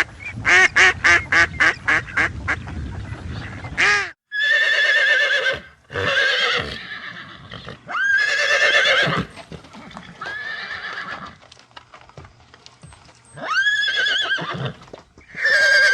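A duck quacking in a rapid run of short quacks. About four seconds in it breaks off, and a horse neighs: five or six long whinnies, each a second or more, with pauses between them.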